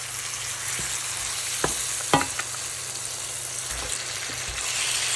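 Chicken and spices sizzling in hot oil in a pan, a steady frying hiss that grows a little louder toward the end. There are two short knocks about two seconds in.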